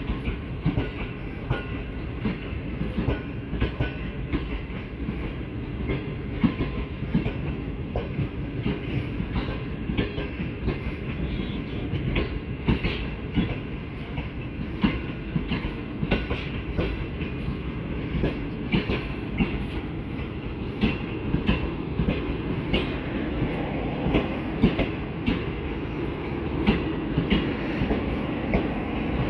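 Train rolling past on the rails, its wheels clattering with a steady clickety-clack of sharp clicks over the rail joints under a continuous rumble.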